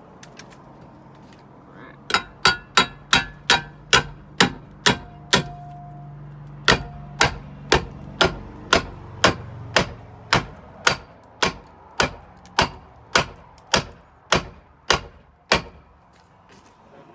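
Hammer driving a Simpson EZ-mender steel fence-post bracket: a steady run of ringing metal blows, about two a second, starting about two seconds in and pausing briefly once.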